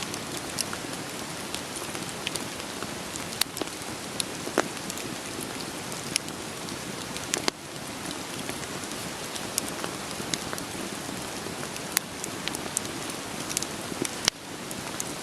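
Steady rain with the sharp pops and crackles of a burning wood fire scattered irregularly through it. The sound dips briefly twice, about seven and a half and fourteen seconds in.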